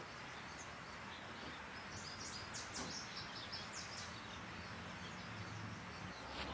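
Quiet outdoor ambience with a steady faint hiss. A quick run of faint, high bird chirps starts about two seconds in and lasts about two seconds.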